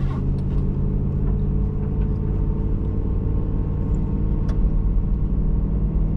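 Steady engine and road rumble of a truck driving along, heard from inside the cab, with a low steady hum. One faint click about four and a half seconds in.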